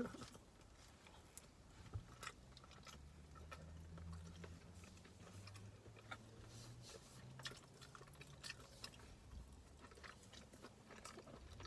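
Faint chewing and mouth noises of people eating soft steamed buns (siopao), with scattered small smacks and clicks over a faint low hum.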